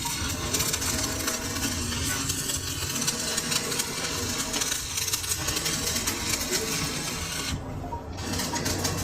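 A metal lathe running, its cutting tool scraping steel: a steady machine hum under a dense crackling rasp from the cut. The rasp stops briefly near the end while the hum carries on.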